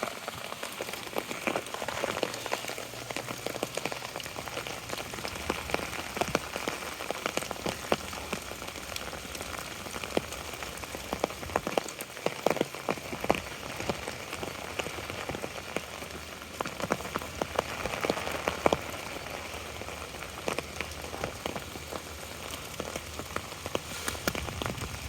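Steady rain, with many single drops striking an umbrella overhead in sharp ticks.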